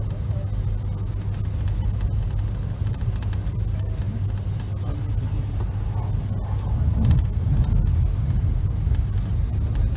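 Steady low rumble inside the passenger coach of a Virgin Pendolino (Class 390) electric train, swelling slightly about seven seconds in.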